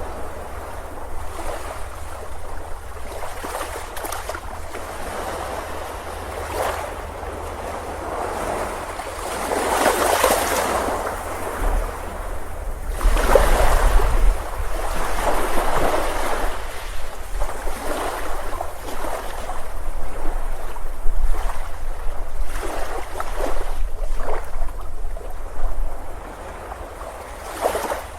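Ocean waves breaking and washing up a beach, the surf swelling and easing in surges with a low rumble underneath, and some wind on the microphone.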